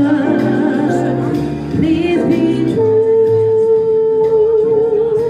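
Singing with instrumental accompaniment. Near the middle one voice settles on a long held note with vibrato that lasts to the end.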